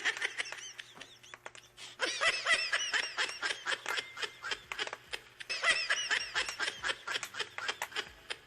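High-pitched, sped-up giggling sound effect: three runs of quick rising-and-falling squeaky notes.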